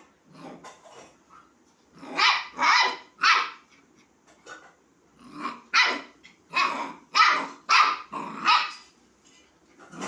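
Puppy barking in short high yaps: three about two seconds in, then a quicker run of about seven from the middle on. These are play barks, calling a kitten to play.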